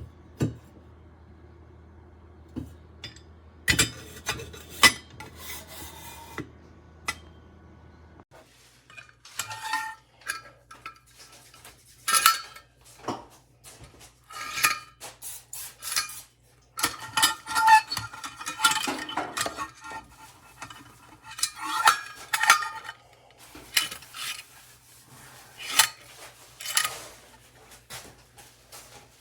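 Stainless steel French press parts clinking, rattling and scraping in irregular bursts as they are handled, with the busiest handling in the second half.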